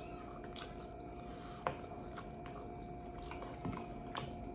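Quiet chewing of mouthfuls of instant ramen noodles, with scattered small clicks and one sharper click about one and a half seconds in, over a steady faint hum.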